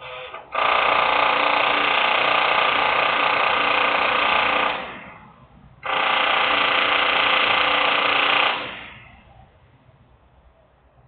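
Loud industrial machine noise in bursts, a hum with many steady tones: a short burst at the start, then one of about four seconds, a gap of about a second, and another of about three seconds that fades away, leaving a low background hum.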